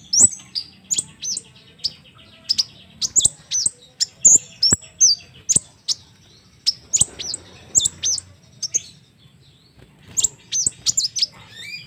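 Crimson sunbird singing: quick runs of sharp, very high chirps, each sweeping downward, with a short pause about two-thirds of the way through.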